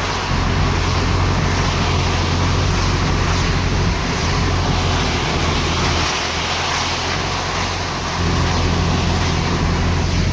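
Car driving along a wet highway, heard from inside the cabin: a steady low engine and road hum with tyre hiss.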